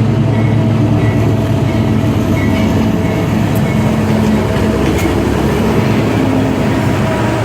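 Ferromex freight train led by GE AC4400CW and EMD SD70ACe diesel-electric locomotives, rolling past with a steady, loud diesel drone and the rumble of wheels on the rails.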